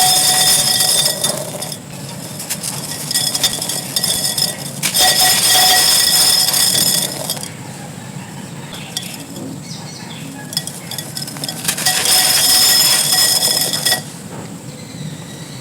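Dry clay pot fragments and gritty sand crumbling and crunching, with sharp clinks from the hard shards. The crunching comes in loud spells: one ending about two seconds in, another from about two and a half to seven seconds, and another around twelve to fourteen seconds, with softer crumbling between.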